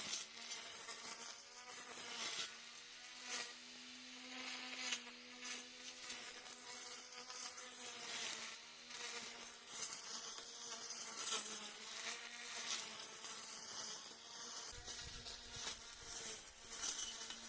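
A grass-cutting machine's small motor running steadily with a thin buzzing whine, its pitch rising a little for a couple of seconds about three seconds in, as it mows grass.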